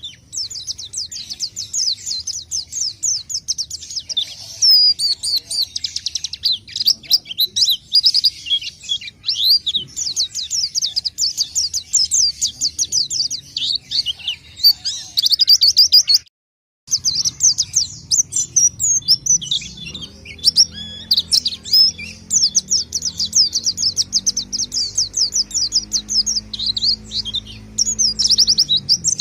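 A pelci songbird singing a long, fast, continuous twittering song of rapid high chirps and trills, broken by a short gap a little past halfway. A faint low hum sits under the song in the later part.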